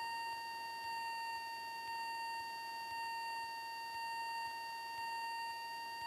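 Steady high-pitched electrical whine in the cockpit intercom audio, one unchanging tone with overtones over faint hiss.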